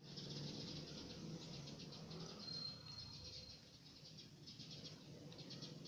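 Faint insects chirping in fast pulsed trills, with a brief thin high whistle-like note about halfway through, over a low steady hum.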